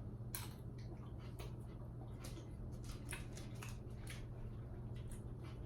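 Someone eating from a bowl of pasta salad: scattered light clicks and taps of a utensil and mouth sounds, over a steady low hum.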